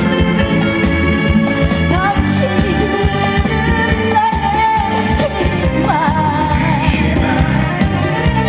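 A singer performing a song over amplified instrumental backing with a steady beat, holding a long note with vibrato about halfway through.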